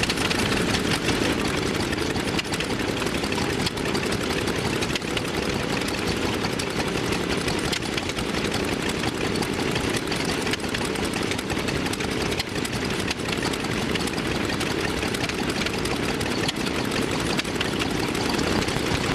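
Vintage engine running steadily at a fast, even beat, with no change in speed.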